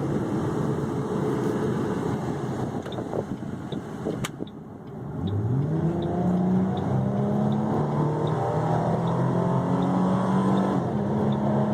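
2008 Mustang GT's 4.6-litre V8 exhaust heard from inside the cabin. It drones at a cruise, eases off briefly about four seconds in, then accelerates hard from about five seconds with the engine note rising and holding high.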